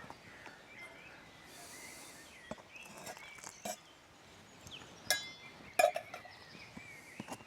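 Light clicks, clinks and rustles of handling a camp meal pouch and utensil, with two sharper clinks about five and six seconds in.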